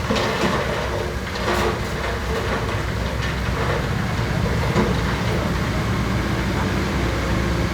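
Diesel engine of heavy earthmoving machinery running steadily with a low rumble, with a few brief rough noises in the first couple of seconds.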